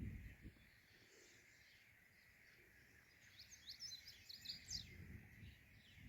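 Faint, high bird chirps: a quick run of short, sliding notes in the middle, over an otherwise near-silent background.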